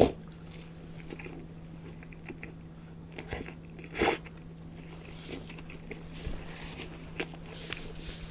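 Close-miked eating sounds: someone biting into and chewing fast food. A sharp loud bite comes right at the start and another burst about four seconds in, with small wet clicks between, over a steady low hum.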